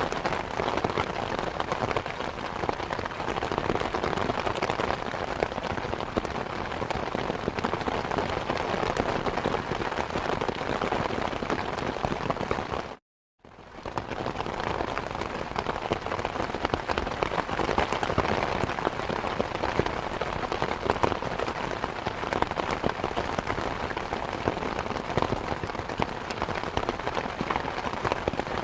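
Steady rain with many individual drops striking a surface. About halfway through, the sound cuts out completely for about half a second, then fades back in.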